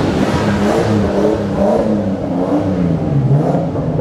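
Nissan Skyline R33's engine being revved in blips as the car rolls through a tunnel, loud, its pitch rising and falling several times.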